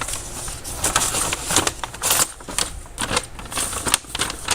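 Irregular clicks, taps and rattles of objects being handled close to the microphone, several a second with uneven spacing.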